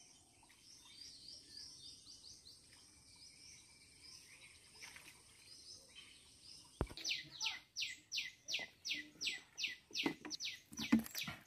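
A bird calling outdoors: faint chirps at first, then after a single click about seven seconds in, a fast, louder run of short downward-sweeping chirps, about three a second.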